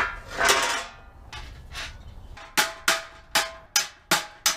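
Hammer-and-dolly dent work on a truck's steel body panel: a small hammer strikes the sheet metal while a large hammer held behind it acts as the dolly. A single knock and a clank near the start, then from about halfway a steady run of sharp, ringing metal-on-metal blows, about two and a half a second.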